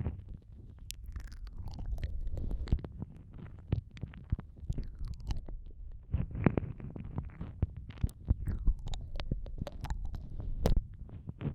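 Ear-eating ASMR mouth sounds on the microphone: irregular wet clicks and smacks of lips and tongue over a low, muffled rubbing.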